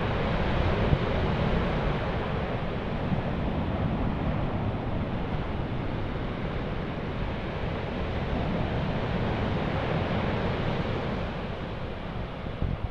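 Stormy sea: a steady rush of surf and strong wind, with the wind buffeting the microphone.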